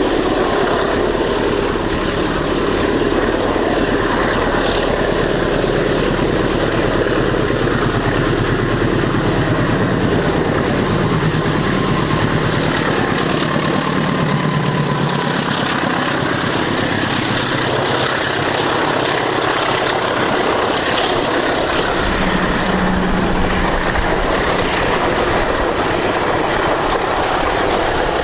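The Bengawan passenger train running past, its wheels rumbling and clattering steadily over the rails.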